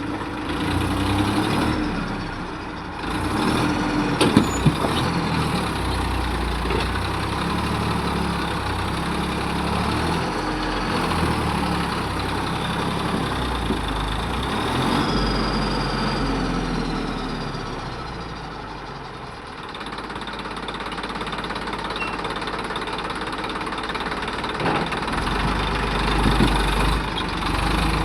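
Tractor engine running, its pitch rising and falling over and over as the engine speeds up and slows down, with a few sharp knocks about four seconds in.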